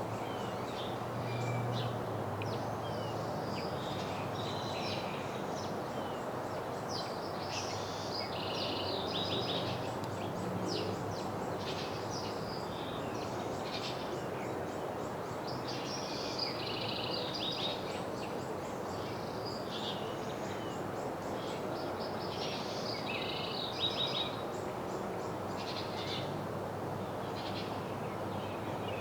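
Small songbirds chirping, many short high calls in quick clusters, over a steady background of outdoor noise.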